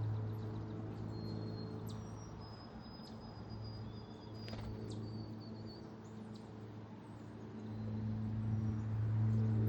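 A low, steady mechanical hum with a few overtones, like an engine or machine running, fading down in the middle and swelling louder near the end. Over it come faint, thin, high bird calls and a few short chirps and ticks.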